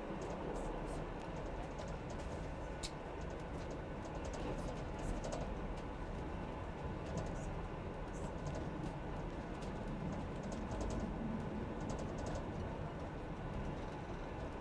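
Train running along the track, heard from the driver's cab: a steady low rumble with scattered light clicks and ticks throughout.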